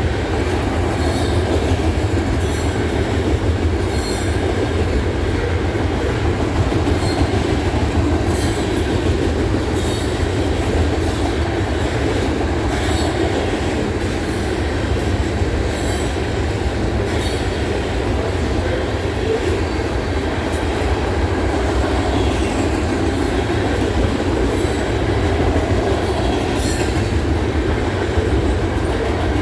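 Loaded freight cars of a long trash train rolling past steadily, a continuous wheel-on-rail rumble with short, sharp high-pitched wheel sounds every second or two.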